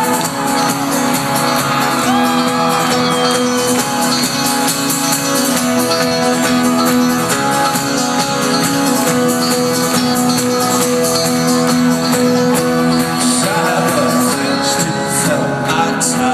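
Live folk-rock band playing an instrumental passage: fast strummed strings in a steady rhythm over held chords, loud and unbroken, with crowd voices over it.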